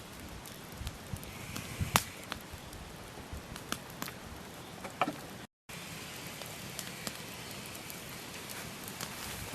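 Wood campfire burning: a steady hiss of flames with irregular sharp crackles and pops from the logs, one loud pop about two seconds in. The sound drops out completely for a split second about halfway through.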